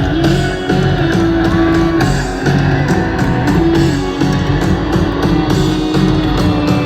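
Live rock band playing an instrumental passage: electric guitar holding sustained notes over bass and drum kit.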